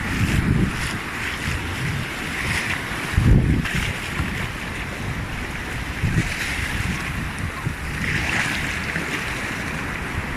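Surf washing up on a sandy beach, a steady hiss, with wind buffeting the microphone in low rumbling gusts, the strongest about three seconds in.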